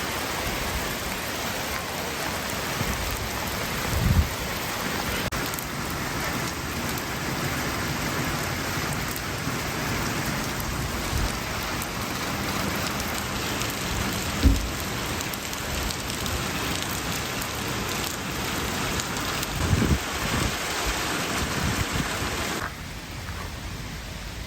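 Heavy rain falling steadily, with a few short low thumps; the rain sound drops off suddenly near the end.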